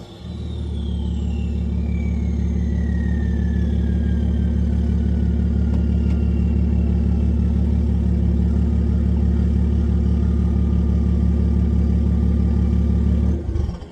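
BMW 335d's twin-turbo inline-six diesel, fully straight-piped, idling with a deep, steady drone, while a thin high whistle slowly falls in pitch. The engine cuts off near the end.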